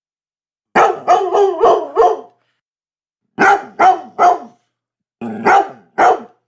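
Dog barking in three quick bursts: about five barks, then three, then three.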